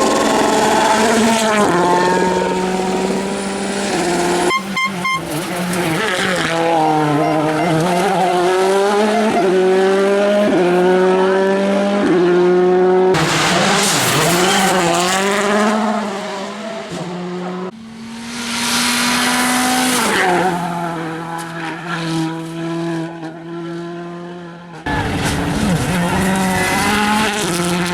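VW Polo R WRC rally car's 1.6-litre turbocharged four-cylinder engine at full throttle, its pitch climbing through the revs and dropping sharply at each gearshift, again and again. The sound changes abruptly a few times, as between separate runs.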